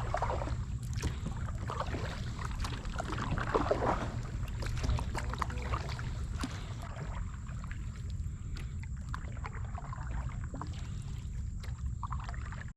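Water splashing and lapping around a fishing kayak, with scattered small knocks and a steady low wind rumble on the microphone.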